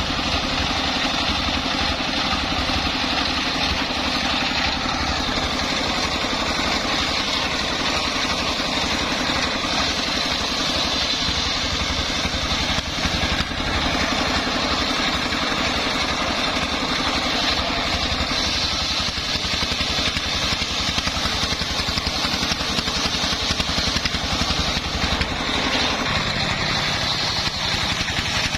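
The engine of a homemade circular-saw rig running steadily with an even low pulse, its note shifting near the end.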